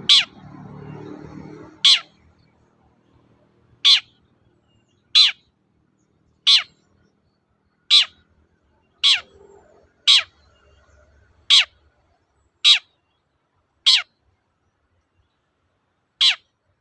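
Long-tailed shrike (cendet) giving a series of about a dozen short, sharp calls, one every second or so, each a quick downward sweep from high to low, with a longer pause near the end.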